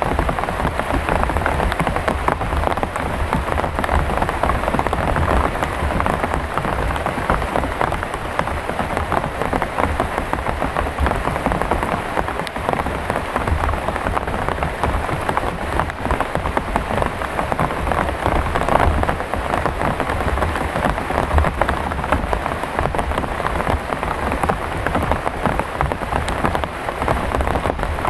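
Heavy rain falling steadily, with dense drumming of drops on a tarp.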